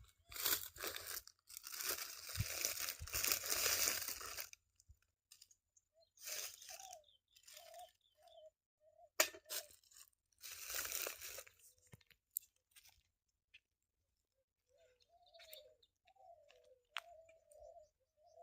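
Several bursts of rustling, crunching noise, with short, wavering calls sounding in the quieter gaps.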